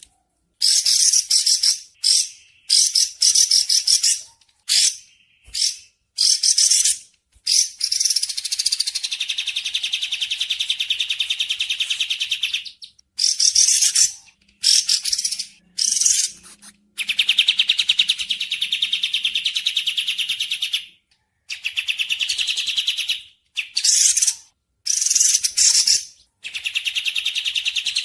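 Songbirds singing on a bird-training (masteran) recording: a string of high, clear chirping phrases and long, rapid trills, each a second or several long, with short pauses between them.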